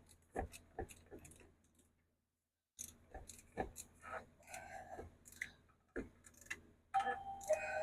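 Plastic oil filter housing cap being screwed down tight: faint, irregular clicks and knocks, with a brief squeaky scrape near the end as the snug plastic threads turn.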